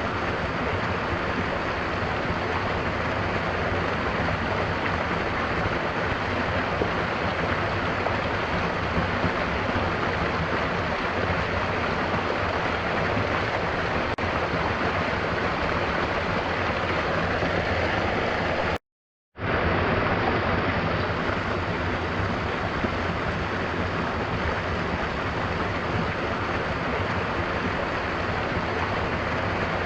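Steady rushing water of a waterfall mixed with rain. About two-thirds of the way through it cuts out completely for about half a second, then comes straight back.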